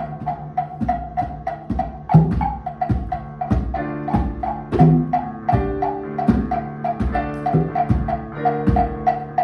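Percussion music: a steady quick tapping about four times a second over low pitched notes that change every half second or so.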